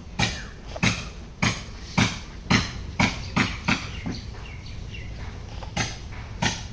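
Hand tool striking wood, in a string of sharp knocks about two a second, as in hammering or chopping while building a wooden boat. The knocks pause for over a second about two-thirds of the way through, then resume.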